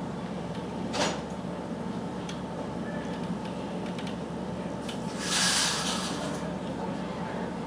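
A large truck's engine running with a steady low hum, broken by a short hiss about a second in and a louder hiss lasting about a second and a half starting around five seconds in.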